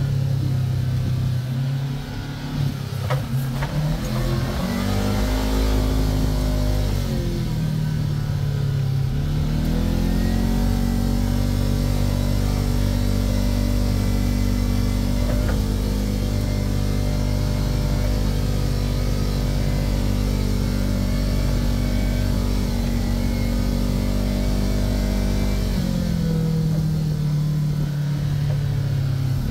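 Kawasaki Teryx KRX 1000 side-by-side's parallel-twin engine running while driving: it revs up about four seconds in, eases off a few seconds later, holds a steady pitch for a long stretch, then drops again near the end.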